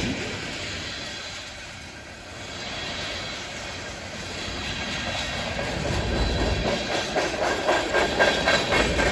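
Freight train cars rolling past, wheels clacking over the rail joints; fainter at first, then louder, with a quick run of clacks in the last few seconds.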